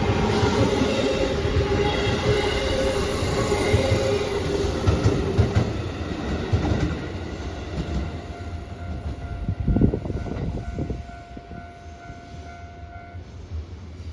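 A train passing over a level crossing, its wheels clattering on the rails and fading away after about six seconds, with a few sharp knocks around ten seconds in. A steady ringing tone, the crossing's warning signal, carries on after the train and stops shortly before the end.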